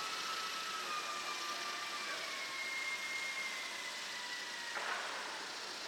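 Electric motor of a small RC model aircraft whining as it flies, its pitch sliding slowly lower, over a haze of wind noise; a short sharp knock about five seconds in.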